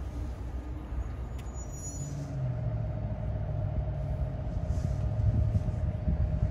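Train at the station: a steady low engine rumble, with a steady whine setting in about two seconds in.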